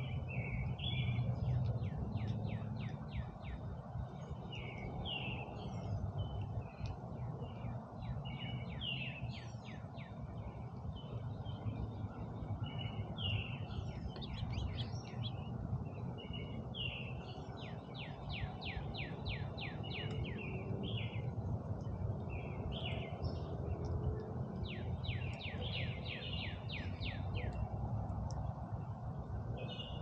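Small songbirds chirping and singing around the feeders: short chirps and several rapid trills of quickly repeated notes, over a steady low background rumble.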